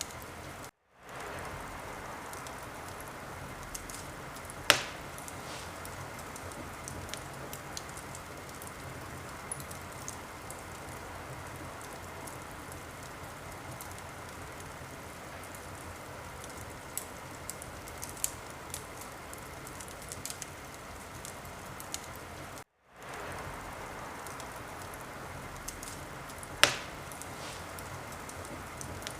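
Wood fire burning with a steady hiss and scattered small crackles, and two loud sharp pops about 5 and 27 seconds in. The sound cuts out twice for a moment and fades back in.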